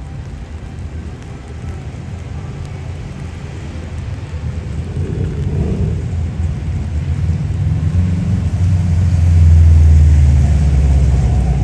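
Street ambience in the rain: a steady hiss of rain with a motor vehicle's low rumble that builds up and peaks about three-quarters of the way in.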